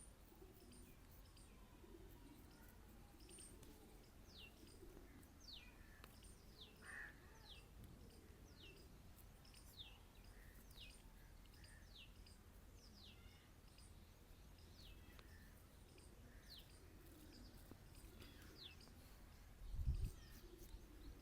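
Faint bird calls: a series of short, high chirps, each sliding downward in pitch, roughly one a second, over quiet background hiss. A low thump comes near the end.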